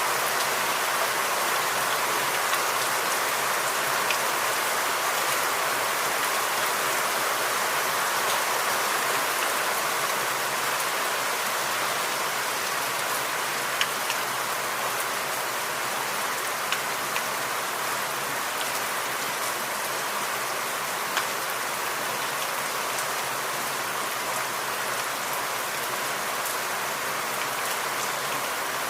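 Steady rain falling in a forest, a continuous hiss with a few louder individual drops ticking now and then.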